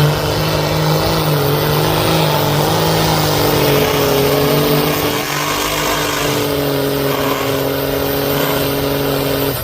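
Big mud truck engine held wide open at high revs for several seconds, its pitch dipping slightly about halfway through, then dropping off at the end.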